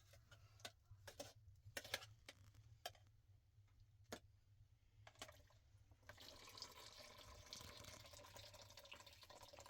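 A few light clicks and knocks, then water pouring steadily into a vessel from about six seconds in.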